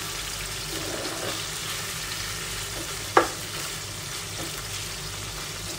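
Boiled, shredded chicken sizzling as it fries in oil in a frying pan, stirred with a wooden spatula. The spatula knocks sharply against the pan once about three seconds in.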